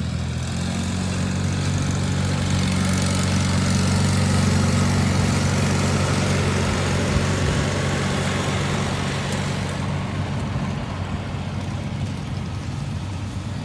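Garden tractor engine running hard under load in a tractor pull, pulling a weight sled. It grows louder to a peak a few seconds in, then eases off, and the hiss of the run falls away near the end.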